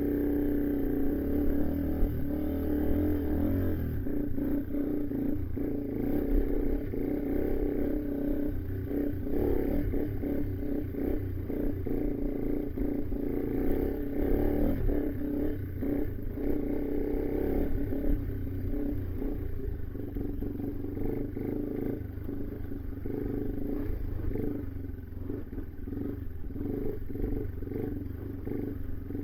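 A 2018 Yamaha TW200's air-cooled single-cylinder four-stroke engine running steadily while riding a rough trail, with frequent knocks and rattles from the bike bouncing over bumps.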